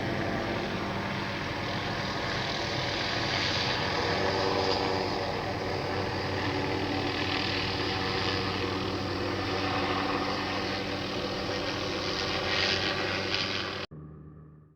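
Hughes 500D helicopter running steadily, a mix of engine and rotor noise with a steady hum under a broad hiss. It cuts off abruptly near the end.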